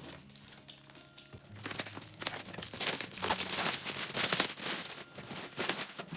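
Packaging being opened and handled: irregular crinkling and rustling, starting about a second and a half in and carrying on busily.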